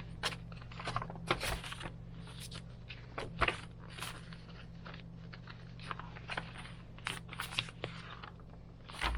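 Pages of a thick handmade paper junk journal being turned and handled: irregular rustles, crinkles and soft scrapes of paper, with a steady low hum underneath.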